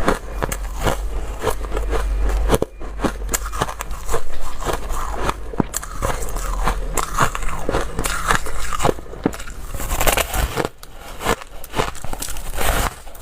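A person biting and chewing dry, crunchy ice in a dense, irregular run of crunches, with a short pause about two and a half seconds in.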